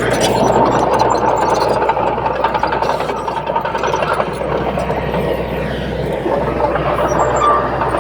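Crawler bulldozer working: its diesel engine running steadily under a dense mechanical clatter, with a thin squeal from the machinery.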